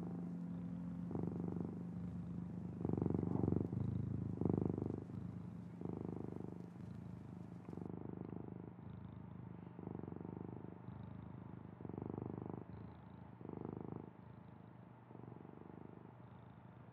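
Feral pigeons cooing: a low, purring coo repeated about once a second, loudest a few seconds in and slowly fading. A steady low hum lies under the first few seconds.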